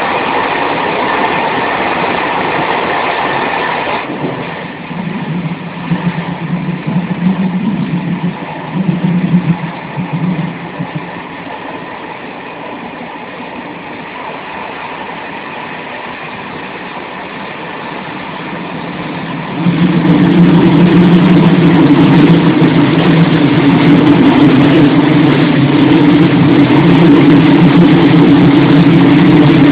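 Czech Railways passenger train running, heard through an open carriage door: steady rumble of the train on the track with rushing air. About two-thirds through it suddenly gets much louder, with a steady deep hum.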